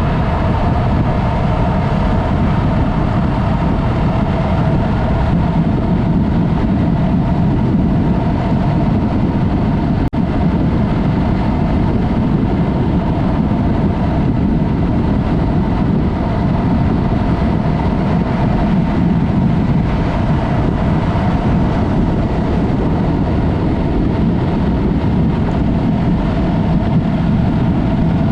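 Yamaha MT-03's parallel-twin engine with a Mivv exhaust running at a steady speed while riding, with heavy wind rush on the camera's microphone. The sound drops out briefly about ten seconds in.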